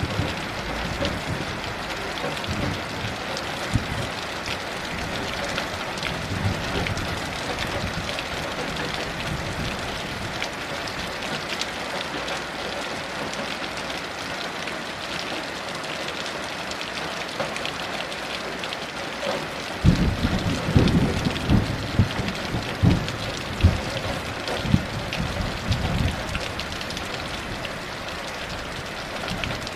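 Steady heavy rain falling, with a low, uneven rumble of thunder lasting several seconds about two-thirds of the way through.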